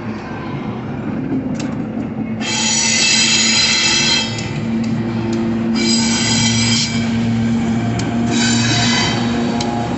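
Railway wagon wheels squealing against the rails as a train moves through the yard, in three high-pitched bursts: a long one about two and a half seconds in, a shorter one around six seconds, and a brief one near the end. A steady low hum runs underneath.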